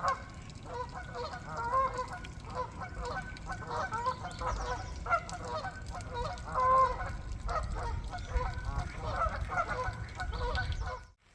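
A flock of geese barking and honking, many short calls overlapping, over a low rumble. The sound cuts off suddenly just before the end.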